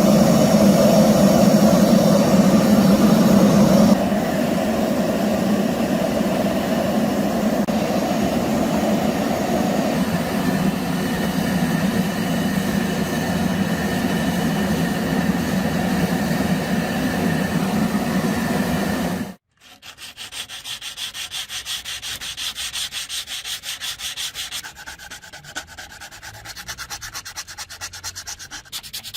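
Steel drill bit being sanded down: a loud, steady abrasive grinding that drops a little about four seconds in and cuts off sharply about two-thirds of the way through, followed by a quieter sanding sound with a fast, even rhythm.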